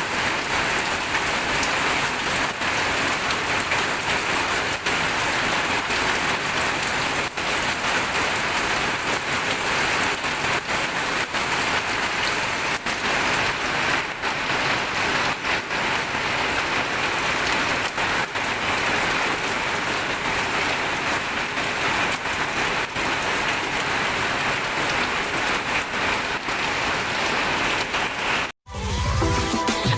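Steady rain falling, an even hiss thick with the ticks of individual drops hitting a surface. Near the end it cuts off abruptly and music begins.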